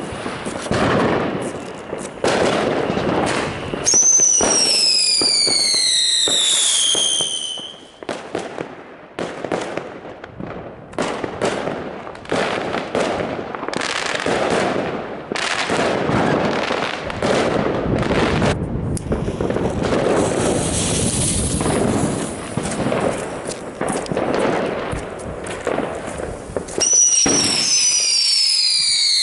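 Funke Tornado Wirbel whistling ground-spinner fireworks spinning with a loud hissing, crackling spray. A high whistle falls in pitch about four seconds in, and another starts near the end.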